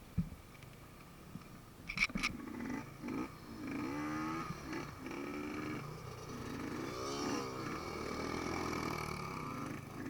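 Enduro dirt bike engines revving up and down, after two sharp clicks about two seconds in.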